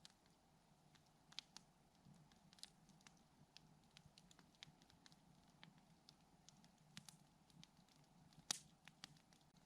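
Campfire crackling faintly: scattered sharp pops and snaps of burning wood, the loudest about eight and a half seconds in.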